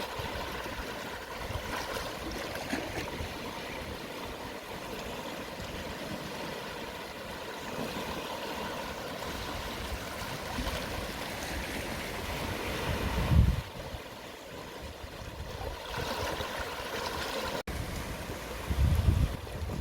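Calm sea waves washing gently on the shore at low tide, a steady wash of surf. There are two brief low rumbles, about 13 seconds in and near the end, and a split-second dropout shortly before the end.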